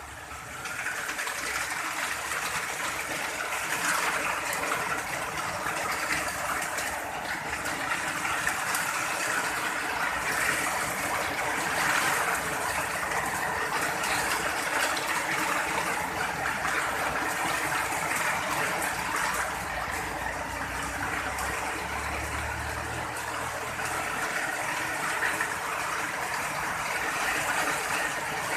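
Steady rain falling, an even hiss throughout. A low rumble joins for a few seconds about twenty seconds in.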